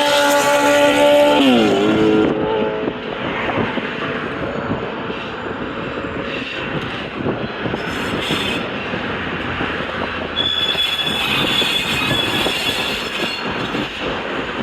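A freight locomotive's horn sounds a chord that drops in pitch and ends about two seconds in. A train then rolls past with steady wheel and rail noise, and a high wheel squeal joins near the end.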